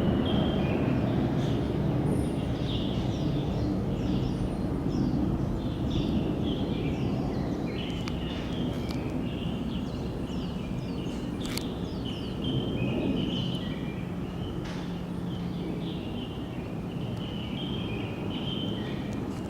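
Small birds chirping over and over, short high calls throughout, over a low rumble that slowly fades.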